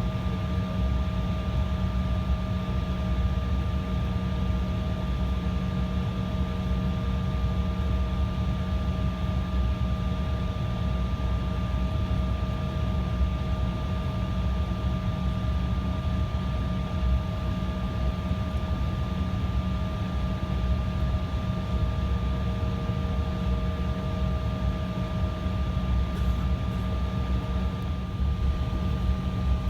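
Embraer regional jet's engines running steadily: a constant low rumble with a few fixed whining tones above it, neither spooling up nor winding down.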